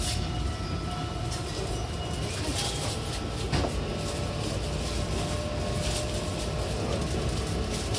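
Odakyu 70000 series GSE train running: a continuous rumble of wheels on rail with the thin, steady whine of its full-SiC VVVF inverter drive over it, and a few short clicks from the track.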